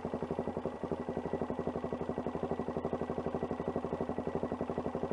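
Adventure motorcycle engine running slowly at low revs, an even, steady pulse of about a dozen beats a second.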